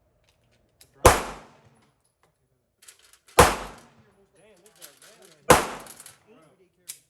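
Pistol shots: three single shots fired about two seconds apart, each sharp crack dying away in a short echo.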